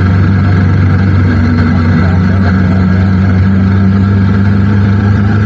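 Motorcycle riding at a steady speed: a constant engine drone with road and wind noise, its pitch shifting a little about two seconds in.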